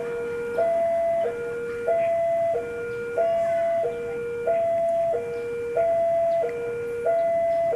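Railway level-crossing warning alarm sounding: an electronic two-tone signal that steps between a higher and a lower tone about every two-thirds of a second, warning that a train is approaching.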